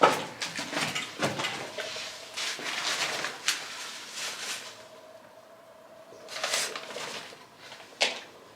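Irregular scuffs, crunches and scrapes of people walking over debris, with a sharp knock right at the start and another about eight seconds in.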